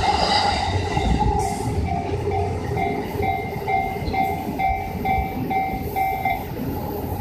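Yamanote Line electric commuter train running past on the rails, with a brief high wheel squeal at the start. A level-crossing warning bell rings about twice a second from about two seconds in and stops near the end.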